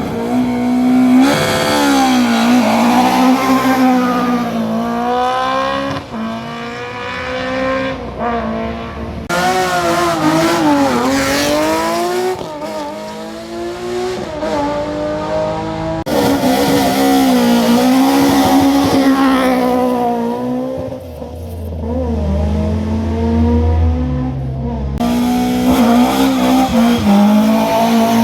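Historic rally car engines revving hard, the pitch climbing and dropping again and again through gear changes and lifts, in several short clips that cut abruptly from one to the next.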